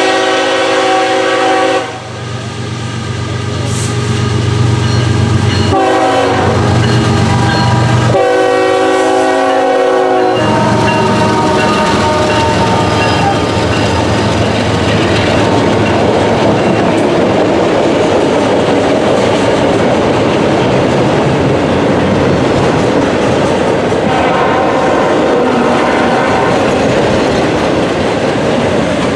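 CSX freight train led by a GE ES44AH diesel locomotive: its air horn sounds three blasts, several notes at once, within the first ten seconds. Then the train runs past with a steady, loud rumble.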